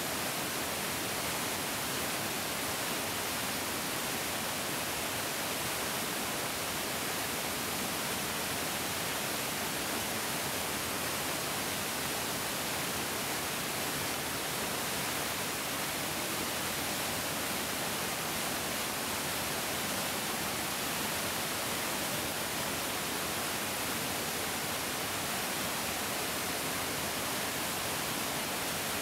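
Larger mountain stream flowing: a steady, even rush of water, bright and hissy, without a break or change.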